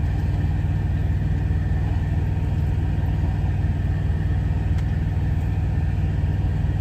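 Semi-truck's diesel engine idling: a steady low rumble with a fast, even pulse.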